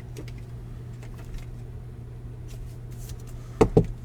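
Baseball trading cards being handled and flipped, with faint light rustles over a steady low hum. About three and a half seconds in come two sharp knocks in quick succession.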